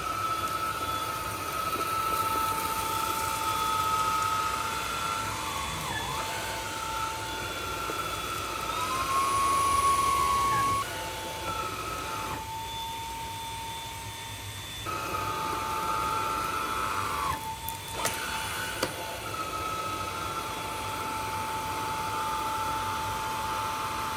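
Cordless stick vacuum running, with a steady high motor whine and a second, higher tone that wavers, dips in pitch and drops out for a few seconds midway.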